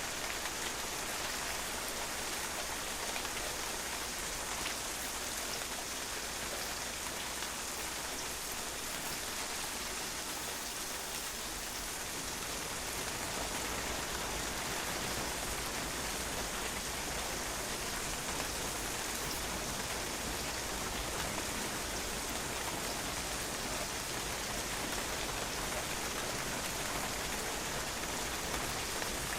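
Steady rain, with drops spattering on a patio in an even, unbroken hiss.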